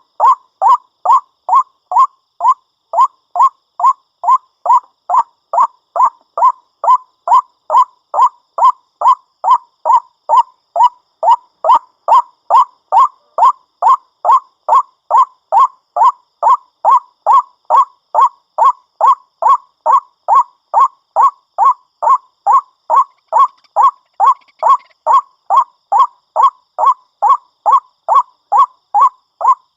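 White-breasted waterhen (ruak-ruak) calling: a short honking note repeated evenly, about two a second, without a break.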